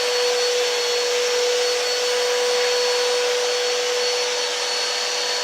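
Vacuum cleaner motor running steadily as it is pushed over carpet, a constant hiss with an even hum and a faint high whine.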